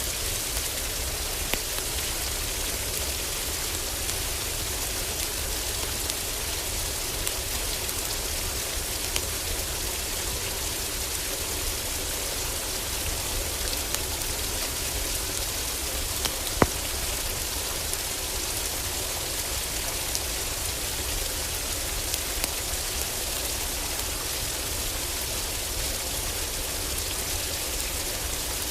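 Heavy rain falling steadily on a roof, with scattered sharp crackles from a wood fire; one louder pop comes a little past halfway.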